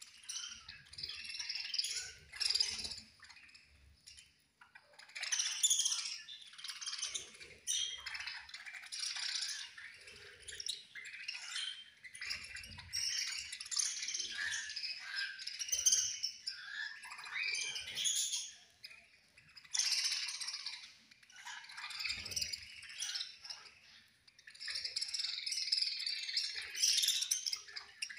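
A group of budgerigars chattering and warbling in dense, overlapping runs, with a few brief lulls.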